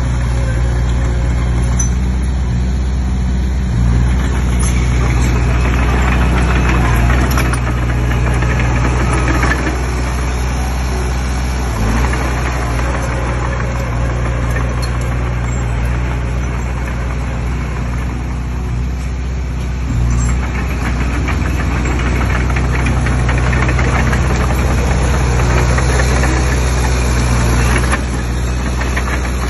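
Komatsu D20P crawler bulldozer's diesel engine running steadily while working. Its note shifts briefly a few times, with stretches of rougher, clattering noise over the engine.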